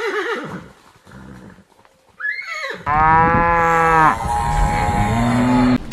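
Cow mooing: a loud pitched moo about three seconds in, followed by a lower, drawn-out moo that rises in pitch and cuts off abruptly near the end, after shorter calls earlier on.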